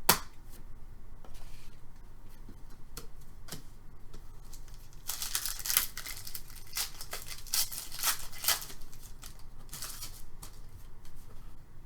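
Hockey trading cards and their packaging being handled: a sharp click right at the start, scattered light clicks, then a run of rustling, tearing strokes from about five to nine seconds in and once more near ten seconds.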